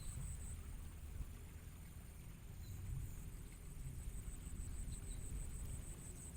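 Outdoor ambience: a steady low rumble, like wind on the microphone, under a high, evenly pulsed trill of about five pulses a second that stops about half a second in and starts again past the middle, with a few faint short chirps.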